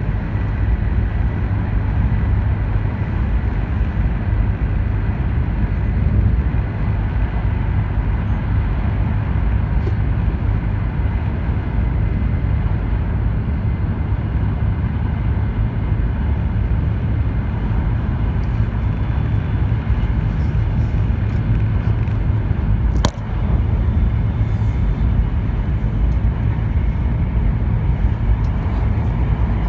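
Cabin running noise of an E2-series Shinkansen at speed: a steady low rumble with a faint high tone over it. A single sharp click comes once, late on.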